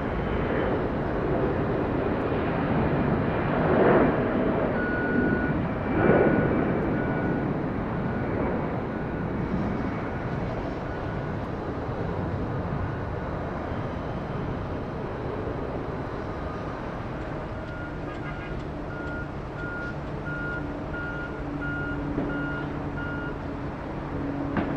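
Steady rumble of jet airliner engines at the airport, swelling twice early on. Over it a ground vehicle's reversing alarm sounds a series of high, even beeps, under two a second, from about five seconds in for several seconds, then again near the end.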